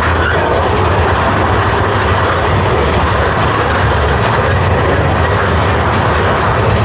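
Big Thunder Mountain Railroad mine-train roller coaster running along its track, a loud, steady rumble.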